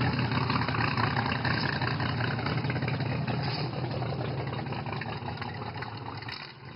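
Car engine idling steadily, fading out toward the end.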